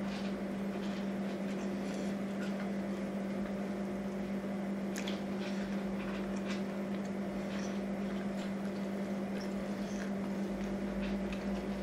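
A person chewing a bacon cheeseburger close to the microphone: soft, irregular wet mouth clicks and smacks, with a finger-licking smack near the end. Under it runs a steady low hum, which is the loudest sound throughout.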